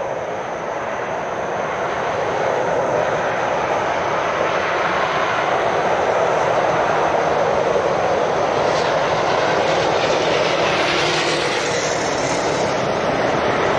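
Road traffic noise from heavy lorries passing, a steady rush of engine and tyre noise that slowly grows louder.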